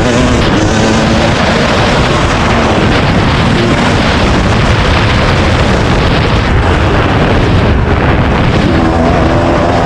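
Dirt bike engine running and revving under heavy wind buffeting on the microphone. The engine's changing pitch stands out in the first two seconds and again near the end; between them a loud rush of wind covers most of it.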